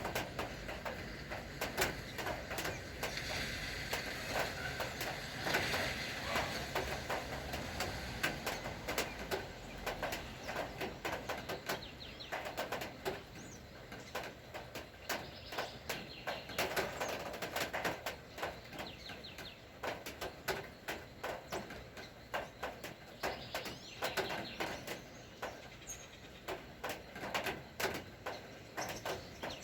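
Rain falling, its drops tapping on nearby surfaces as a dense, irregular run of ticks, with birds calling faintly behind it.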